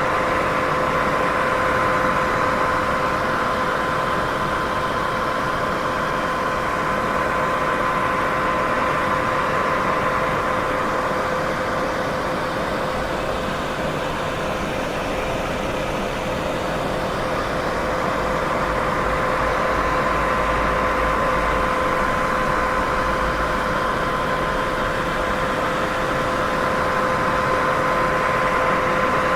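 Steady white noise hiss for sleep masking, even and unbroken, with a faint steady hum tone running through it.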